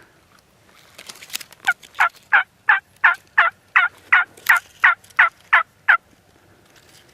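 A turkey call worked by the hunter: a run of about a dozen loud yelps at about three a second, each note dropping in pitch, to draw in a tom.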